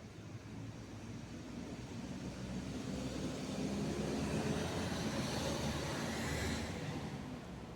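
ATR 72-600's twin turboprop engines passing by, the sound building to a peak about five seconds in and then fading, its hiss dropping away sharply near the end.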